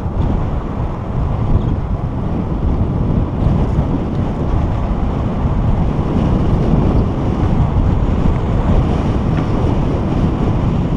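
Wind buffeting the microphone of a moving bicycle: a steady, loud low rumble.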